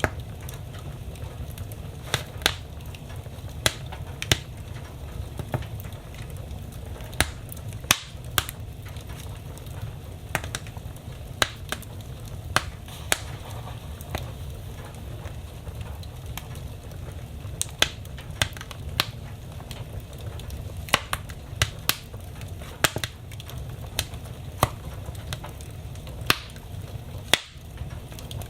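Wood fire burning in a fireplace: a steady low rumble of flames with sharp, irregular crackles and pops from the burning logs, several every few seconds.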